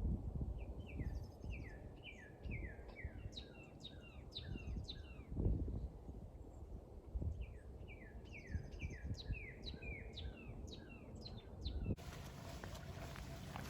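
A songbird singing two bouts of quick, high, downward-sliding notes, each about four seconds long, over a low rumble. Near the end the sound cuts abruptly to a steady hiss.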